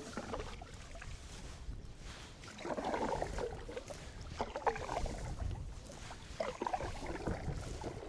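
Canoe paddle strokes in the water, three strokes about two seconds apart, over a low steady rumble of wind.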